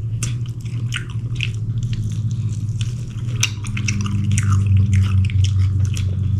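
Close-miked chewing and wet lip-smacking while eating sauced chicken wings: many short, irregular smacks and clicks, over a steady low hum.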